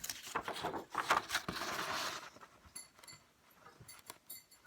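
A marker scribbling on paper, colouring in a shape in quick strokes for about two seconds, then a few faint taps and paper handling.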